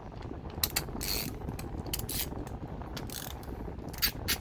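Socket ratchet clicking as a 1/2 inch socket works the bolt on the bottom of a Walbro carburetor. Scattered clicks and short scrapes come first, then a steady run of ratchet clicks near the end, about four a second.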